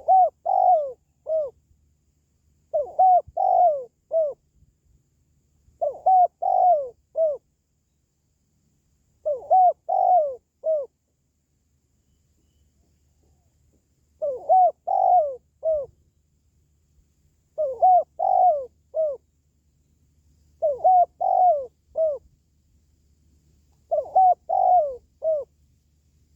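Spotted dove cooing: a repeated phrase of a short note, a longer doubled coo and a short closing note, given eight times about every three seconds, with one longer pause near the middle.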